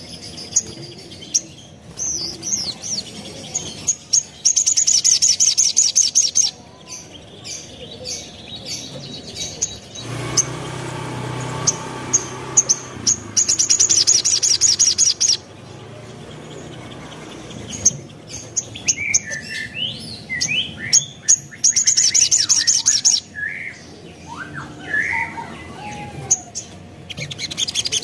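Little spiderhunter (sogon) singing: bursts of very rapid, high trills lasting about two seconds, repeated four times, with varied chirps and sliding notes of its repertoire between them.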